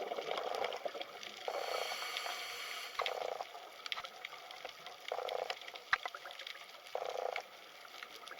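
Water trickling and sloshing in short surges every second or two, with scattered small clicks.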